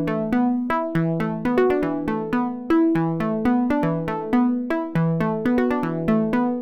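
Melodic house synth lead patch in the Vital software synth playing a repeating phrase of short, plucky notes, often two or three at once, about four or five a second. Each note opens with a sharp click from a short white-noise burst and dies away quickly under a plucky filter envelope.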